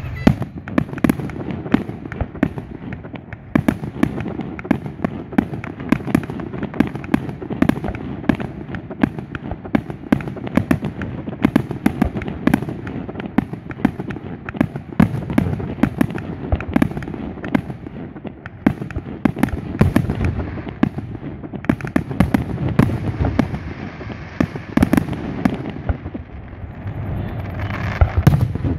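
Aerial fireworks display: shells bursting in quick succession, a dense barrage of sharp reports, several a second, over a low rumble, with no break.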